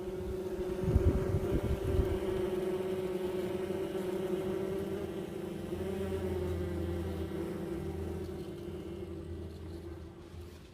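A honeybee swarm humming in a steady, continuous drone. A few low thumps come about one to two seconds in.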